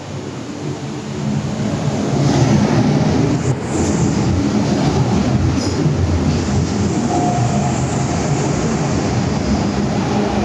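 MTR M-Train metro cars running on the Island Line. The rumble of wheels on rail builds over the first couple of seconds and then holds steady, with a few brief wheel squeals.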